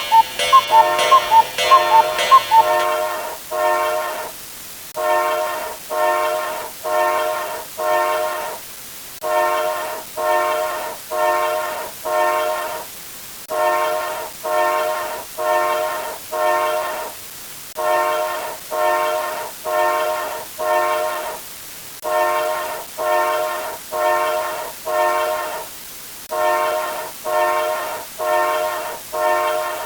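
A horn sounding a chord of several tones in short blasts, repeated in groups of four with a brief pause between groups. A brighter, wavering pitched sound ends about three seconds in.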